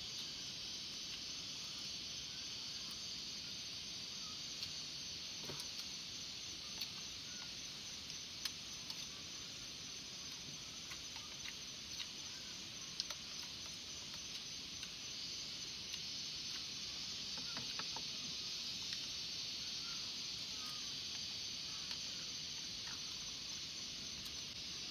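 Evening insect chorus, a steady high-pitched shrill hum, with a few faint clicks scattered through it.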